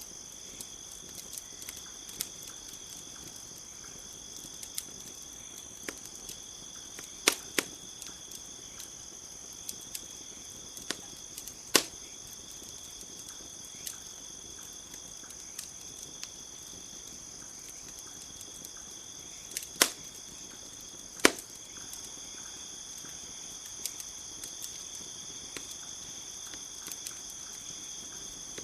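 Wood campfire crackling, with scattered small ticks and four loud sharp pops. A steady high chorus of crickets runs underneath.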